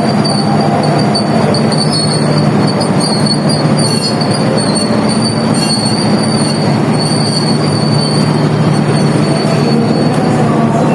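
Passenger train running past close by: a steady loud rumble of the cars with a high, thin wheel squeal held throughout.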